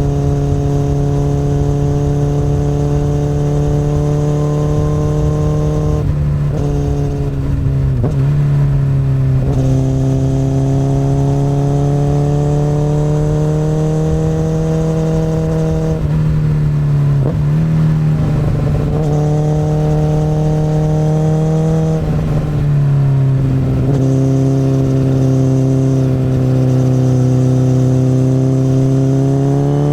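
Akrapovic exhaust of a 2008 Honda CBR1000RR inline-four sport bike, heard from the bike at a steady cruising throttle. The note dips and picks up again several times as the throttle closes and reopens, then rises in pitch as the bike accelerates near the end.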